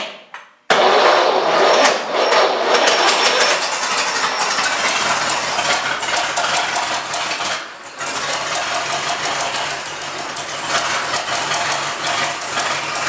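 1912 Stearns-Knight sleeve-valve engine starting on battery about a second in and then running loud with the exhaust cutout open. It dips briefly just past halfway and picks up again.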